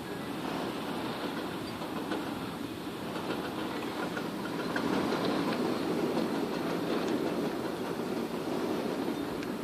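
Heavy rain pouring down steadily in a summer thunderstorm, a rushing hiss with scattered drops ticking, growing a little louder about five seconds in.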